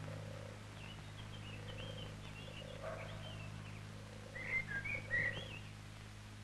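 Birds chirping faintly in short rising and falling calls, busiest about four to five seconds in, over a steady low hum.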